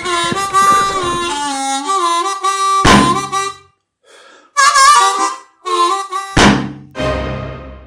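Harmonica playing a melody of held and stepping notes, broken briefly about four seconds in, with two low thumps about three and six and a half seconds in.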